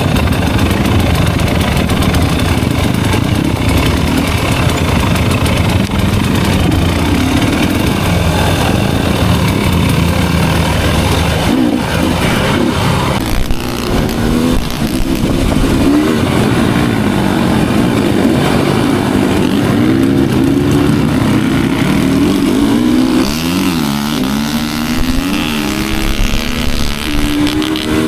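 Enduro motorcycle engine running under way, steady at first, then with the revs rising and falling again and again through the second half.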